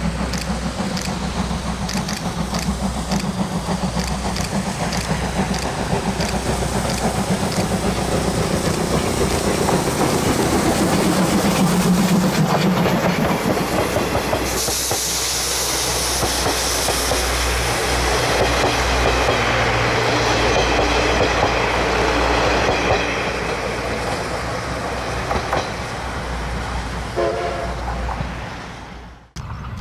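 Steam locomotive C58 239 and its train running past, with evenly spaced clicks in the first several seconds. A loud hiss comes in about halfway through.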